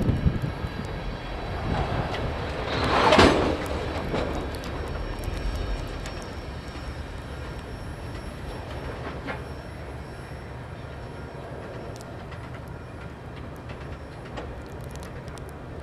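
Freight train cars rolling past on the rails, with a loud swell about three seconds in, then a steady rumble that slowly fades.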